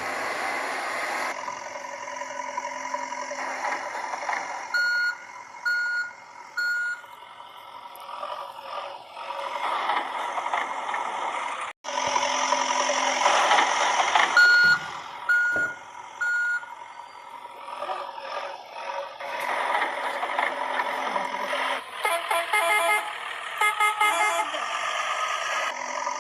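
Electronic toy-truck sound effects: a steady engine noise broken by sets of three evenly spaced reversing beeps, with a faster beeping run near the end. The pattern repeats, like a looped sound clip.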